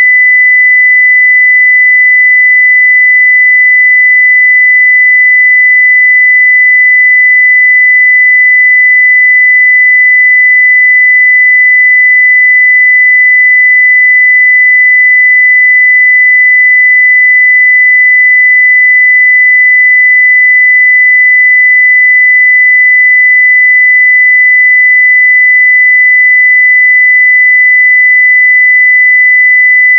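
A 2 kHz sine-wave test tone at full level, one pure steady pitch held without change.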